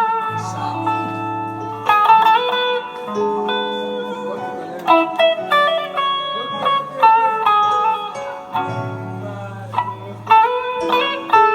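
Guitar playing a melodic lead line with bent notes over sustained chords and a bass line.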